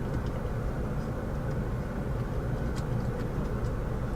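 Steady low rumble inside a parked Mazda 6's cabin, with a few faint clicks about three seconds in.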